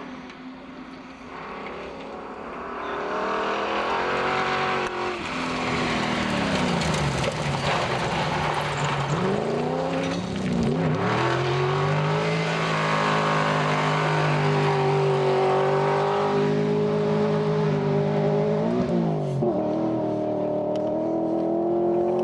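Rally car engine at full throttle, its pitch climbing and dropping back several times as it changes gear. It grows louder over the first few seconds, stays loud, then cuts off abruptly.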